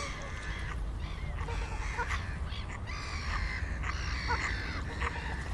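Many birds calling at once: short chirps and calls overlapping throughout, over a steady low rumble.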